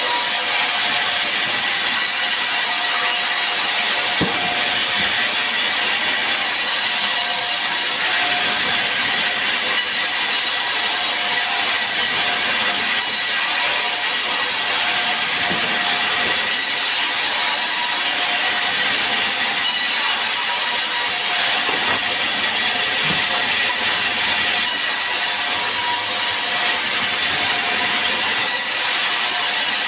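Sawmill saw running steadily: an even, loud high hiss with a few held whining tones, unchanging throughout.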